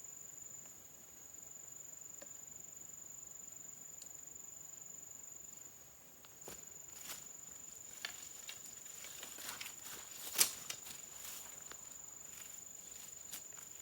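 Steady high-pitched drone of crickets or similar insects. In the second half, scattered light clicks and knocks join it, the sharpest one about ten seconds in.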